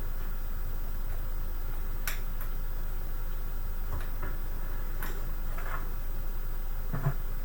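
Light clicks and taps of hands handling parts inside a desktop PC case, scattered through the middle and later part, with a duller knock near the end, over a steady low hum.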